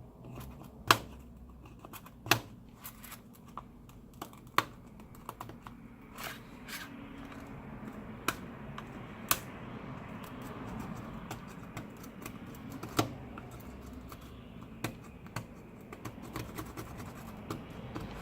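Flat screwdriver scraping and picking shards of broken screen glass and hardened glue off a smartphone's frame: irregular sharp clicks and ticks, with a steadier scratching from about six seconds in.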